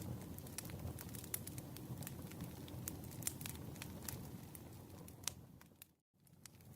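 Wood campfire burning, with a low steady rumble and scattered sharp crackles and pops. A little past five seconds the sound fades out to a moment of dead silence, then fades back in.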